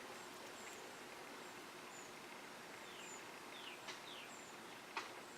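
Faint bird chirps, short high notes repeating every second or so with a few falling calls midway, over steady outdoor background hiss. Two soft clicks come near the end.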